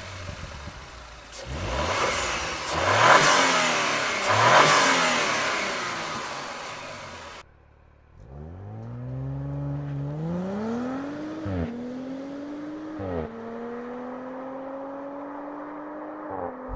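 The 2018 Audi RS 4 Avant's 2.9-litre twin-turbo V6 revved hard in several quick blips, loudest a few seconds in. Then the car pulls away under acceleration, the engine note rising through the gears with two quick upshifts and growing fainter as it goes.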